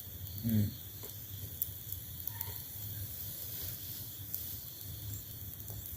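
Steady high-pitched chirring of night insects, with a short low voice-like sound about half a second in and a few faint ticks.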